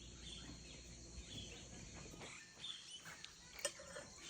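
Faint Amazon rainforest ambience before dawn: a steady high insect drone with short bird chirps scattered through it, and one sharp click a little before the end.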